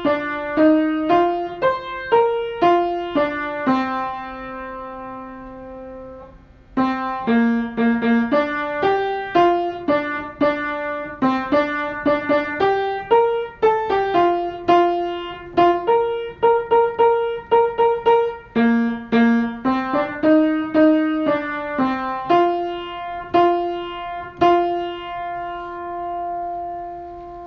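Solo piano playing a gentle song melody with chords, notes struck and left to ring, with a held chord about four seconds in and a long sustained note near the end.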